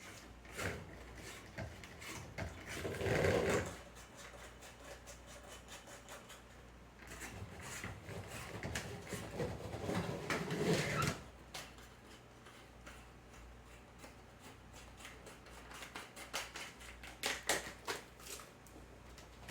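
Handling noise from a hand-held series-circuit demonstration model: scattered clicks and light knocks, with two longer rustling, scraping passages, one about three seconds in and one from about seven to eleven seconds.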